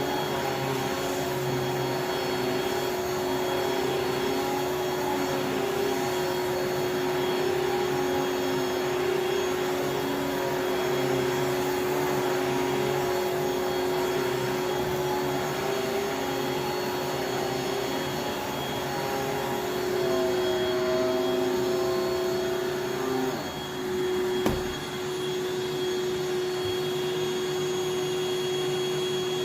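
Water-filtration vacuum cleaner running steadily with a constant motor whine. About two-thirds of the way through, its pitch dips briefly and there is a single sharp click.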